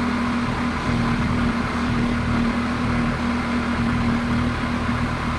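A machine running steadily with a constant, even hum and no change in speed.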